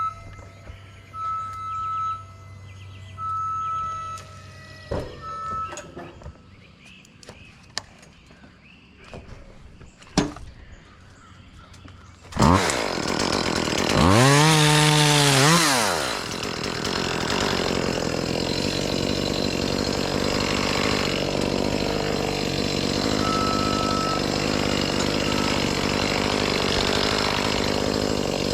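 A repeating electronic beep, about one a second, sounds for the first few seconds. About twelve seconds in, a two-stroke chainsaw starts, revs up and back down once, and then runs steadily.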